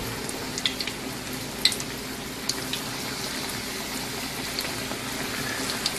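Batter-coated pumpkin (zucchini) flowers frying in hot oil in a skillet: a steady sizzle with scattered pops and crackles, the sharpest of them in the first three seconds.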